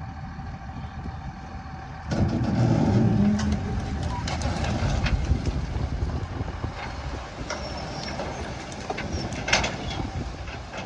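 A heavy vehicle's engine running, with a sudden jump in loudness about two seconds in, then scattered knocks and rattles over the rumble.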